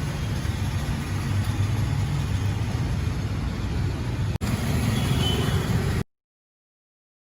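Steady low rumble of passing road traffic. It drops out for an instant about four seconds in and cuts to dead silence about six seconds in.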